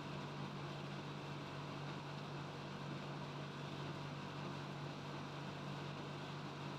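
Steady low mechanical hum under a constant even hiss, unchanging throughout.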